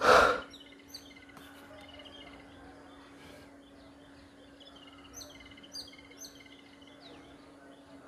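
Several small birds chirping and calling, with short high chirps scattered throughout and a repeated run of chirps a little past the middle. A steady low hum runs underneath, and a short, loud puff of noise comes right at the start.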